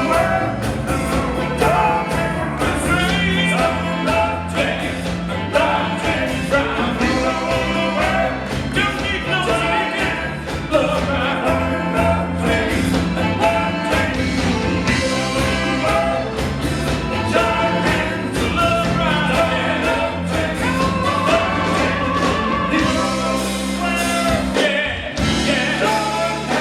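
Live disco-soul band playing, with singing over a steady dance beat.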